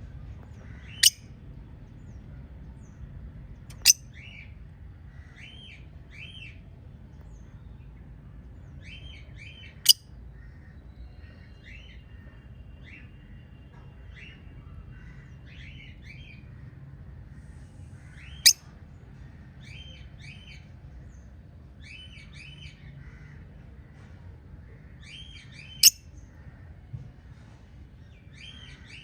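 Several budgerigars chirping in short calls that come in small clusters. Five sharp, very brief clicks are spread through and are the loudest sounds, over a low steady hum.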